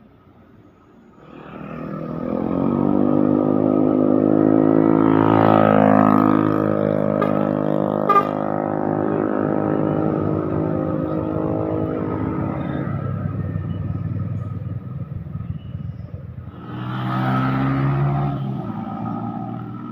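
Heavy diesel vehicle's engine growing loud as it approaches and drives past, its pitch bending as it goes by, with a sharp click about eight seconds in. A second vehicle's engine swells briefly near the end.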